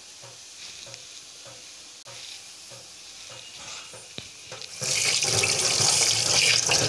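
Vegetable stuffing sizzling faintly in a frying pan, with a few light clicks. About five seconds in, a loud rushing hiss starts and lasts about two seconds.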